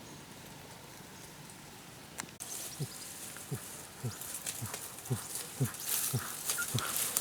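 An animal making short low calls over and over, each falling in pitch, about two a second, starting a little over two seconds in, with scattered clicks mixed in.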